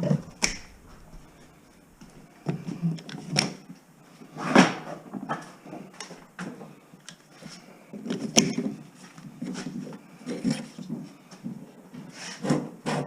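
Irregular handling noise of scrap wire and debris being pulled and sorted: scattered sharp clicks and knocks with rubbing and scraping in between.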